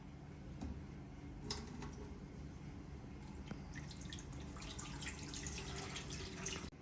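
Water trickling and dripping in an ultrasonic cleaner's tank, with small clinks, getting busier from about a second and a half in, over a faint low steady hum.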